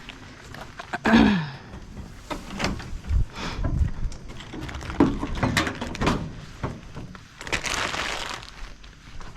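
Knocks, thumps and rustling as bags of spelt grain are handled and put into a freezer. About a second in there is a loud short sound falling in pitch, and around eight seconds a longer rustle.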